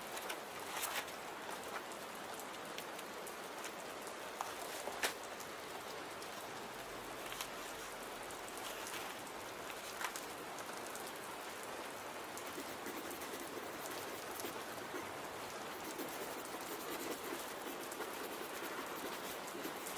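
Steady rain, with a few sharp separate clicks scattered through, the loudest about five seconds in.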